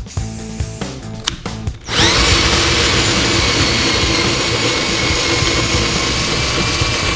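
Background music, then about two seconds in a power tool spins up with a rising whine and runs steadily at full speed, much louder than the music.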